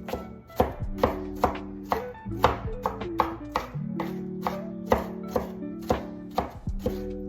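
Knife chopping a bell pepper on a cutting board: a steady run of strikes, about two or three a second, over background music.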